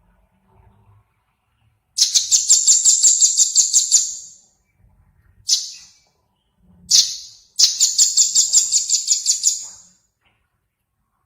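A small songbird calling in rapid runs of sharp, high chips, about five a second, each run lasting about two and a half seconds, with single chips between the runs.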